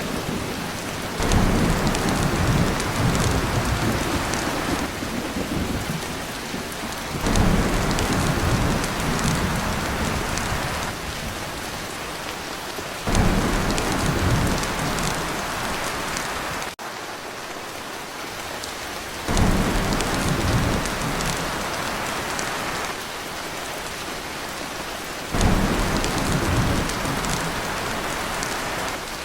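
Heavy rain on a tin roof with thunder rumbling: a deep rumble starts suddenly about every six seconds, five times, and fades under the steady rain. The sound cuts out for an instant about halfway.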